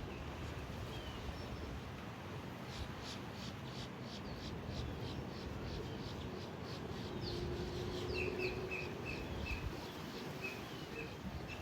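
Small birds chirping over a steady low outdoor rumble: a quick run of short high chirps, several a second, then a string of short repeated notes near the end.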